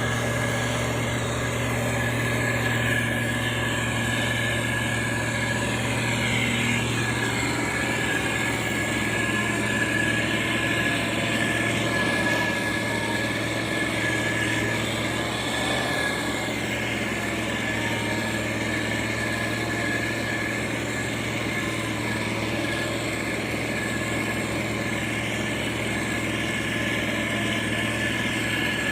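Heavy diesel construction machinery, a motor grader or road roller, running steadily with a constant engine drone and a steady high whine over it.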